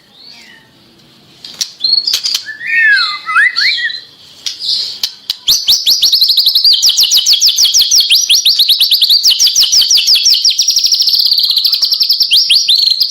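White-rumped shama singing: a few sliding, whistled phrases, then from about five seconds in a long, fast run of repeated high notes, about eight a second.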